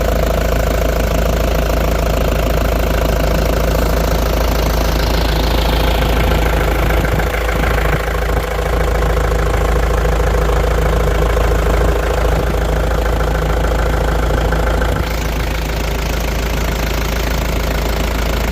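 The four-cylinder diesel of a 2002 Mitsubishi Fuso box truck idling steadily, still cold after a start in 27-degree weather. A faint high tone falls in pitch about five seconds in, and the engine sound drops slightly about fifteen seconds in.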